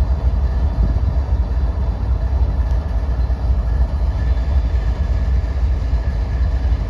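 GE U30B diesel locomotive engine sound running steadily with a low rumble.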